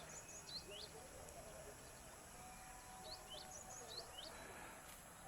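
Faint chirps from a small bird: short, sharp, high calls that sweep downward, in a few quick clusters over a low outdoor hiss.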